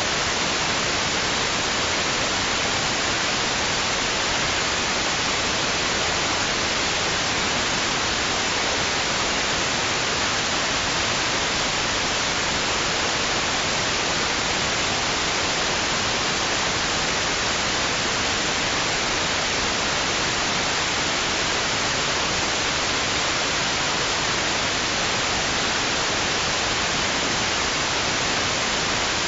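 Steady white noise: an even, unchanging hiss spread across all pitches, with no rise and fall of waves.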